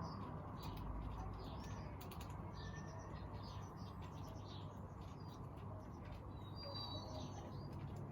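Aviary birds chirping, with many short calls overlapping and a few light clicks, over a steady low hum.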